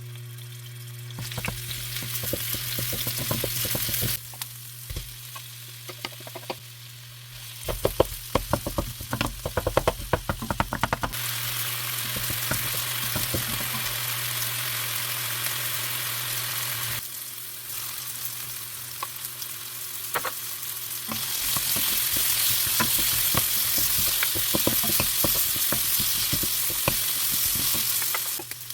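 Food sizzling in an oiled frying pan as it is stir-fried, the sizzle stopping and starting again several times. A run of quick clicks and scrapes of a spatula against the pan comes about a third of the way in.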